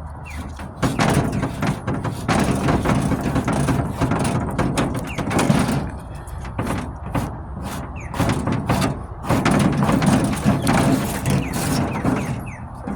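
Surform flat-blade rasp scraping across cured Bondo body filler in repeated strokes, with short pauses between runs of strokes.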